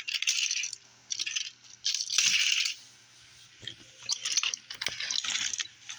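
Toy trains clattering and scraping as they are handled, in several short crunchy bursts with gaps between them.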